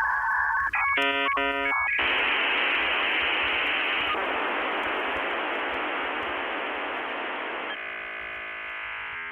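Radio-style electronic sound: a short warbling burst of stacked tones about a second in, then a steady hiss of static, turning into a buzzing tone near the end, all thin and band-limited as if heard over a radio.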